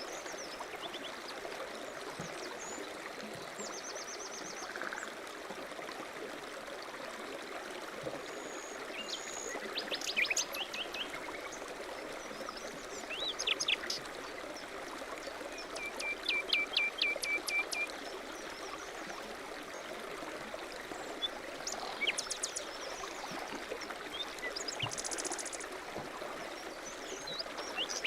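A stream running steadily, with small songbirds chirping and singing over it, including a quick run of about eight notes a little past the middle and a few short high trills.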